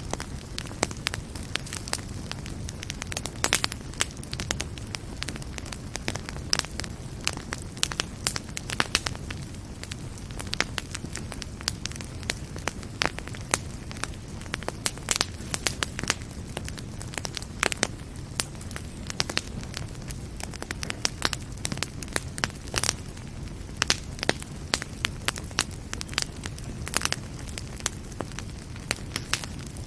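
Wood fire burning in a fireplace: a steady low rumble of flames with frequent, irregular crackles and pops from the logs.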